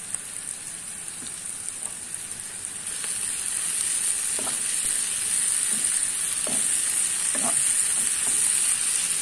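Green beans frying in oil in a pan, sizzling steadily. About three seconds in, a wooden spatula starts stirring them, with a few short scrapes against the pan, and the sizzle grows louder.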